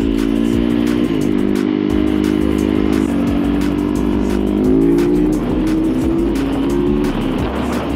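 The 450 cc four-stroke single-cylinder engine of a 2022 Yamaha YZ450F supermoto running on the move. Its note holds steady between a few sudden shifts: up about a second in, down around three seconds in, then up and down again near the middle.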